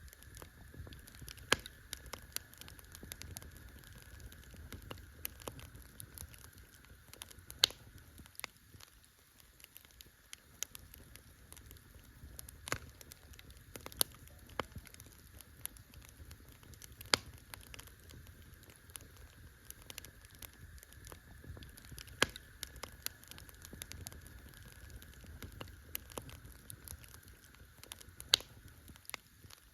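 Campfire burning with irregular crackles and sharp pops, the loudest every few seconds, over a low steady rumble of the fire.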